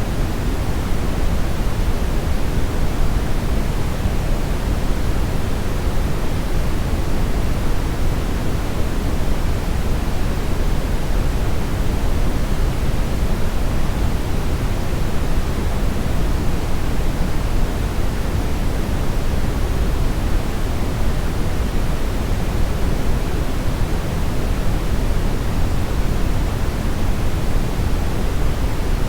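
Steady synthetic brownish noise: an even, unbroken rumbling hiss weighted toward the low end, with no changes.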